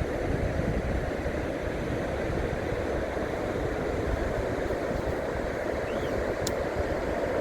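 Surf washing onto a beach, a steady rush, with wind buffeting the microphone.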